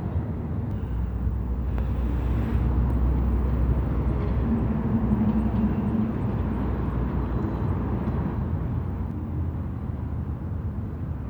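City bus traffic: diesel bus engines running and passing, a steady low rumble that grows louder in the middle, with a brief engine drone about five seconds in.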